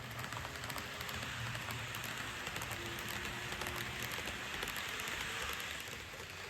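N gauge model train running along the track: a steady hiss of wheels on rail, peppered with fine clicks, over a low motor hum. It grows louder through the middle and eases off near the end.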